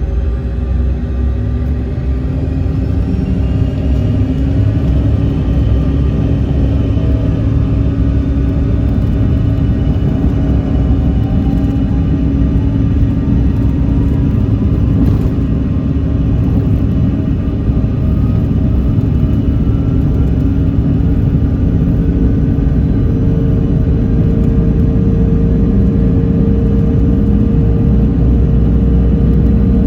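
Jet airliner engines heard from inside the cabin at takeoff: a loud, steady rumble with whines that rise in pitch over the first several seconds as the engines spool up.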